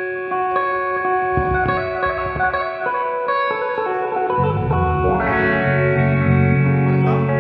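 Band music led by an electric guitar through effects, playing a melody of held, changing notes; low notes come in underneath about four seconds in.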